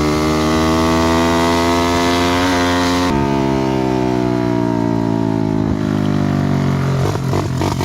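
Dirt bike engine running hard at high revs, its pitch sinking slowly. About seven seconds in the note breaks up into a rough, rapid, uneven pulsing.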